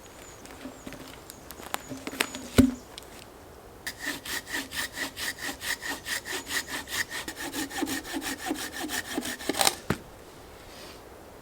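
Silky Gomboy folding hand saw cutting through a dead log with fast, even strokes for about six seconds, then stopping as the cut finishes. Before the sawing there are a few cracks and one loud knock as the wood is handled.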